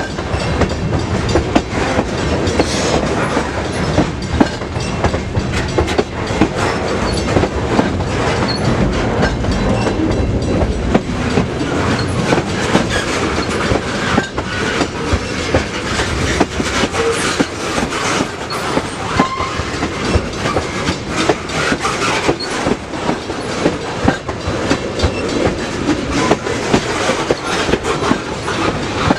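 Freight train passing close by, its cars' wheels clacking steadily over rail joints with many sharp knocks and rattles.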